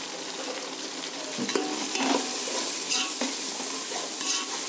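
Onions, green chillies and ginger-garlic paste sizzling in hot oil in a metal pot, with a metal ladle scraping against the pot as turmeric powder is stirred in from about a second and a half in.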